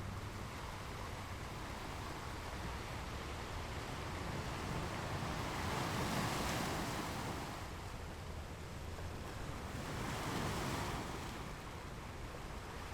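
Ocean surf: a steady wash of sea noise with two waves breaking and rushing in, the louder one about six seconds in and another about ten seconds in.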